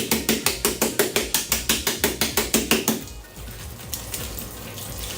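Rapid, even clicking or knocking, about seven strokes a second, that stops about three seconds in and leaves a quieter steady hiss.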